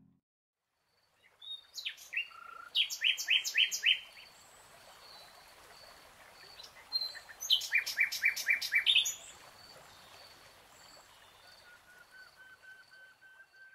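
Songbirds singing, starting about a second in: two loud bursts of rapid repeated notes a few seconds apart, with softer repeated calls from other birds over a faint outdoor hiss, and a steady run of short notes near the end.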